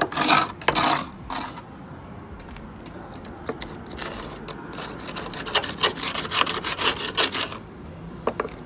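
Rapid back-and-forth scrubbing strokes on rusty van bodywork, worked by hand over a panel treated with rust remover gel. A burst of strokes comes at the start, then a quieter pause, then a longer run of quick strokes in the second half.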